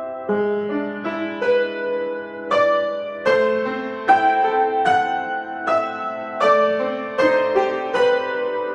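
Piano being played: a slow-paced piece with chords and melody notes struck about once or twice a second, each ringing and fading under the next.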